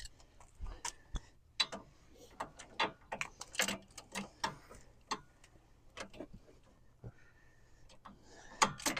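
Ratchet wrench clicking in short strokes, a few clicks a second with brief pauses, as the front hub's mounting bolts are worked loose.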